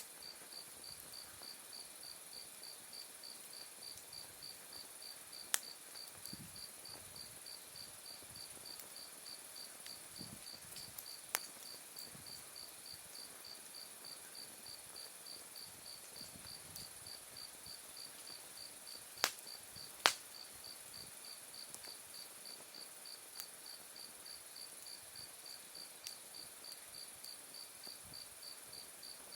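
Night insects chirping steadily: an even, rapid, high-pitched pulsed chirp over a continuous higher trill. A wood fire pops sharply now and then, a handful of times, loudest as a quick double pop about twenty seconds in.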